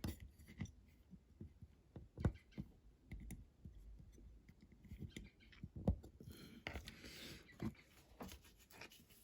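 Faint irregular clicks and taps of small diecast model parts being handled and pressed into the car's body, with two sharper knocks about two and six seconds in.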